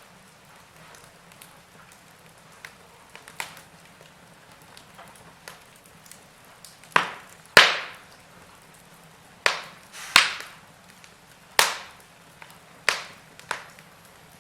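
Wood fire crackling in a fireplace: irregular sharp pops from the burning logs over a faint steady hiss, a few small ones early and a cluster of loud snaps between about 7 and 13 seconds in.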